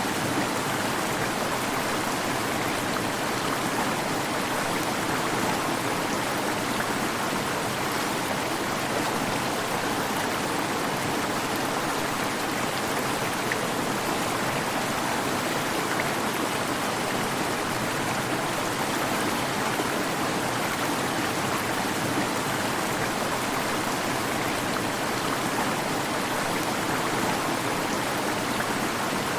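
Waterfall: a steady rush of falling and splashing water, even and unbroken.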